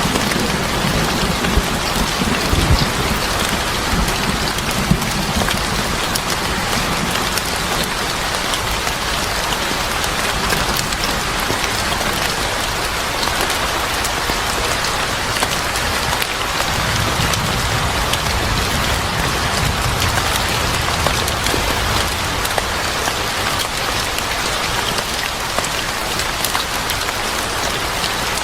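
Steady rain falling, with low rumbles near the start and again about two-thirds of the way through.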